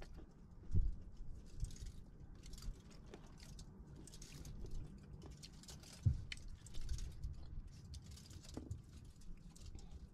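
Close-up chewing of grapes: irregular small clicks and crackles of eating, with two sharper knocks about a second in and about six seconds in.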